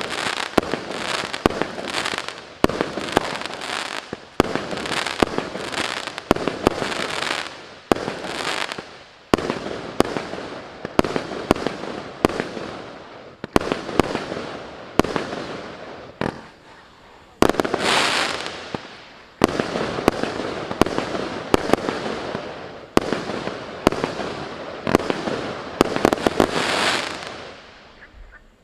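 80-shot, 0.8-inch firework cake firing: a rapid run of sharp shots, roughly one a second and sometimes in quick clusters, each followed by a fading hissing tail. The shots die out near the end.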